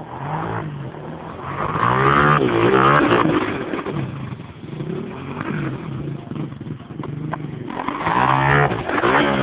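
Motocross bike engine revving up and down repeatedly, surging loudest about two seconds in and again near the end.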